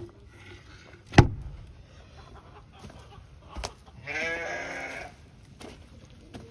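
A sharp knock about a second in and a softer one a little later, then one drawn-out, wavering call from a bird in the flock, just under a second long.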